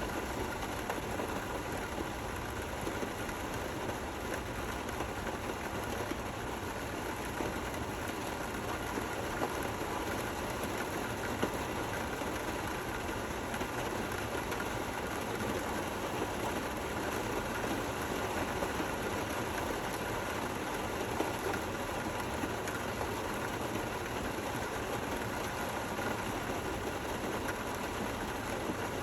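Steady, gentle rainfall: an even hiss of many small drops, without thunder.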